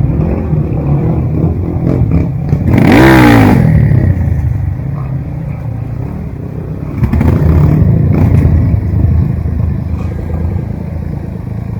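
Off-road trail motorcycle engine revving hard: a sharp burst of revs about three seconds in whose pitch climbs and falls back, then a second stretch of hard throttle around seven to eight seconds, settling to a lower running note near the end.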